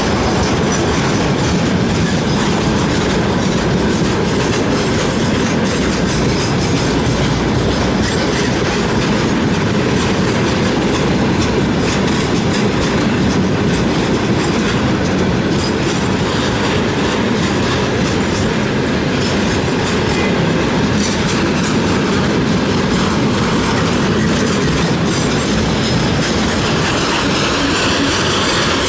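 Railway wagons rolling past in a steady loud rumble, the wheels clacking over rail joints.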